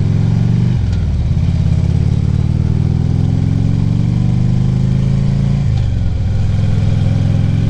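Harley-Davidson Ultra Classic Limited V-twin engine pulling the bike along, shifting up about a second in and again near six seconds, with the pitch climbing slowly between the shifts.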